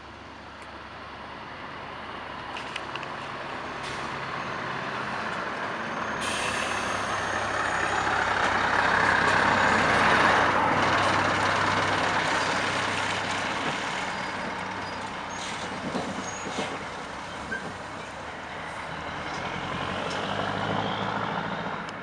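Scania V8 diesel truck driving past: the engine noise grows louder as it approaches, peaks about ten seconds in, then fades, and swells a little again near the end.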